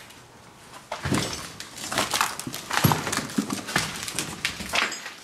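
Footsteps, with irregular knocks and clatters on a hard floor, starting about a second in.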